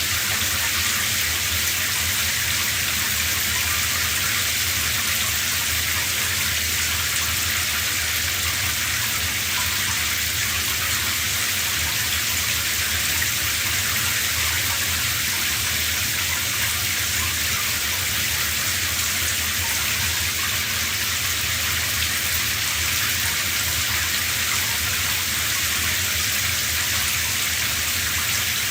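Shower running: a steady spray of water falling onto a hard surface, an even hiss with no change.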